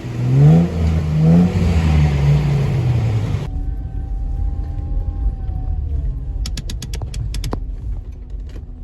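Four-wheel-drive Landcruiser's engine revving up twice as it pushes into a muddy bog hole, then running more evenly. A few sharp clicks or knocks come about two-thirds of the way through.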